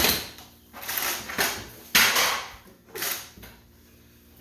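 A string of about five short knocks and scrapes, each fading quickly, as of objects being handled and set down, then a quieter stretch near the end.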